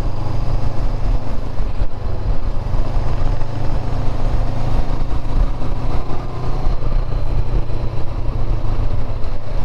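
Motorcycle under way at a steady pace, with engine and riding noise running evenly throughout.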